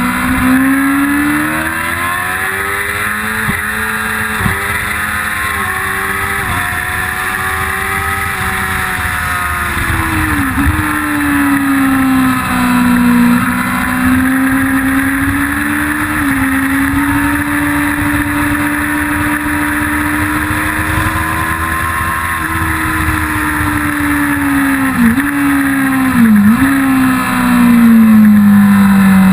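1999 Yamaha YZF-R6's four-cylinder engine pulling hard under the rider, its pitch climbing and falling with speed, with quick sharp dips at gear changes, twice in quick succession near the end before the revs drop away.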